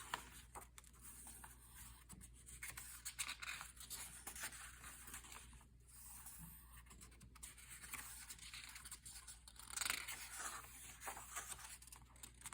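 Faint, irregular scratching of colouring on paper, in short uneven strokes.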